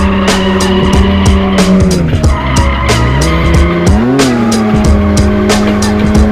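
Drift car's engine held high in the revs, dropping briefly and climbing again around the middle, with tyres squealing as it slides. Music with a steady beat plays alongside.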